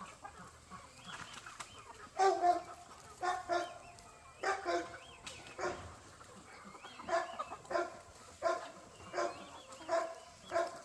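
Chickens clucking, short calls repeating about once a second from about two seconds in, with faint high chirps above them.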